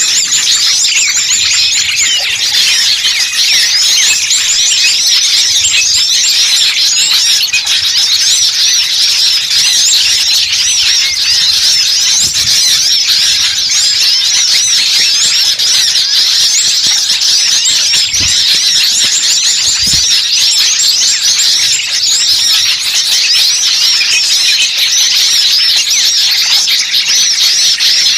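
Dense, loud chorus of many small songbirds chirping and trilling at once, rapid high calls overlapping without a break. It is a bird-lure recording of agitated small birds ('burcil ribut'), the kind played to draw wild birds in.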